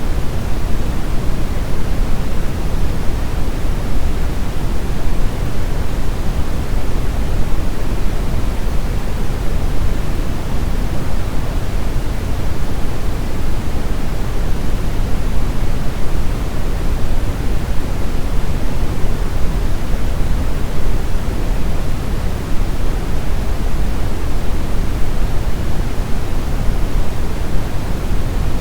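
Steady, continuous brown noise: an even, deep rumbling hiss weighted heavily toward the low end, with no changes or events.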